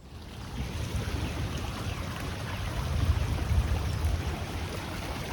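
Floodwater rushing and running, a steady wash of water noise that starts abruptly, with wind buffeting the microphone as a low rumble that swells in the middle.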